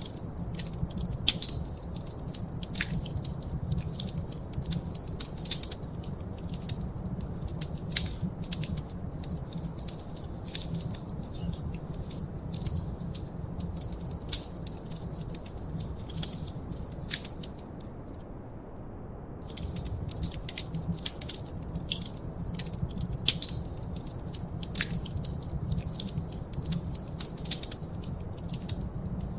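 Wood fire crackling in a fireplace: dense, irregular pops and snaps over a steady low rumble. The crackling stops for about a second roughly two-thirds of the way through, then resumes.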